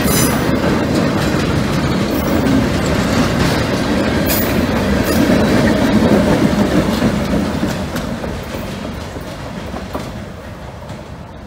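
Freight train rolling past, with its flat cars' wheels rumbling and clacking. Then the EMD MP15DC switcher locomotive at the rear goes by, and the sound fades as the train moves away.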